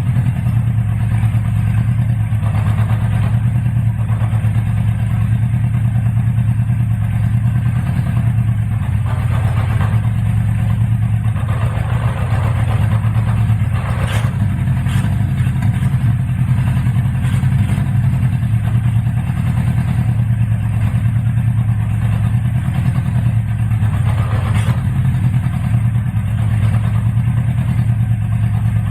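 Honda CB550F's air-cooled inline four-cylinder engine running steadily at idle, a sign the revived engine has started and keeps running, with a couple of faint clicks over it.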